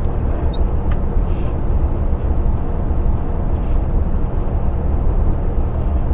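Truck's diesel engine running steadily at cruising speed with road noise, heard from inside the cab: a constant low drone with no change in pitch.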